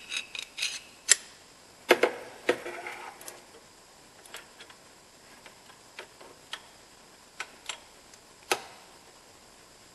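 Irregular clicks and clinks of metal hand tools, with a ringing metal clank about two seconds in, then sparser clicks.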